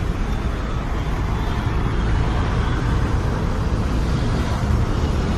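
Steady road-traffic noise, a continuous low rumble with no distinct events.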